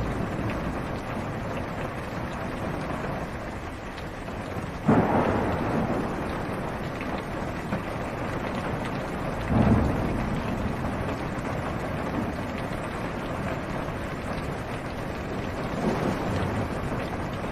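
Steady rain on a car's roof and windows, with thunder: a sudden clap about five seconds in, another near ten seconds, each fading away, and a softer rumble near the end.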